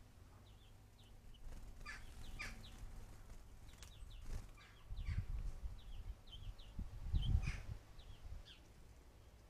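Small birds chirping in short, scattered calls, with low rumbling bursts about halfway through and again near three quarters of the way in.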